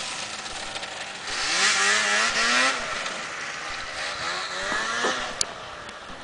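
1979 Blizzard 7500 Plus snowmobile's two-stroke engine running under way, revving up about a second in, then dropping in pitch and fading as it moves off.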